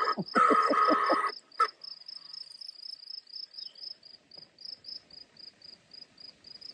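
A field cricket chirping steadily, a short high chirp about three times a second. In the first second or so a louder hissing spurt, typical of a small solar birdbath fountain that sputters on and off, cuts out, with one brief spurt after it.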